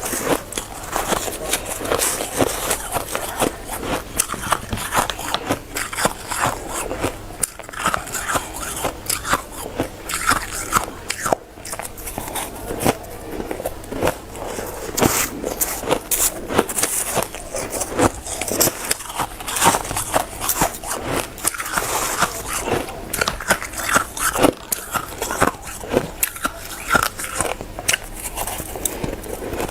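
Hard, frosty shaved ice being bitten and chewed close to the microphone: a dense, continuous run of crisp crunches and crackles.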